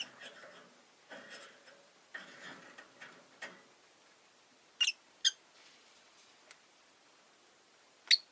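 Rosy-faced lovebirds calling: soft, scratchy chatter for the first few seconds, then short sharp chirps, two about five seconds in and one near the end.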